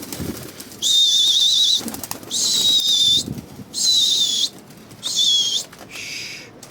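Five shrill whistle blasts, each about a second long with a warbling pitch, the last one lower and softer: a pigeon keeper whistling to drive his pigeons up into the air, with faint wing flapping between the blasts.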